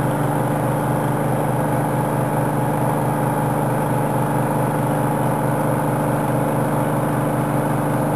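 Dewatering pumps running steadily, keeping the cofferdammed ramp pumped dry: an even mechanical drone with a fast pulsing low hum.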